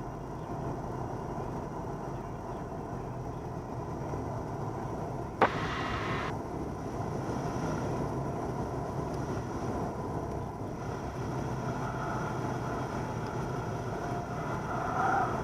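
Cabin sound of a 1977 Cessna 172N's four-cylinder Lycoming engine running at low landing power, a steady drone. A sharp click about five seconds in is followed by a hiss of under a second. Wavering tones rise over the drone in the last few seconds.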